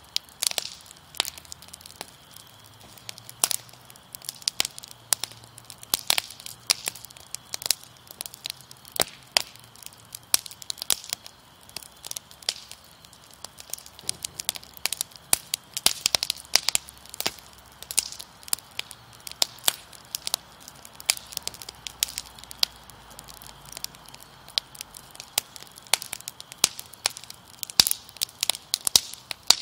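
Wood fire crackling, with frequent sharp, irregular pops and snaps over a soft hiss.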